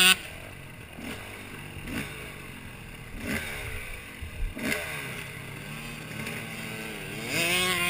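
Dirt bike engine running with brief blips of revs, then climbing in pitch near the end as it revs up. A short loud burst comes right at the start.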